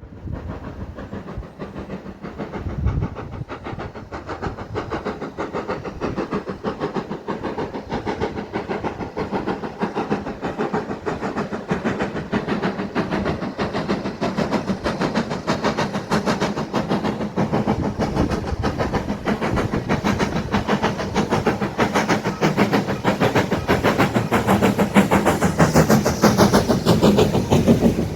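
Heritage steam locomotive working with its train, with a dense, fast clatter that grows gradually louder.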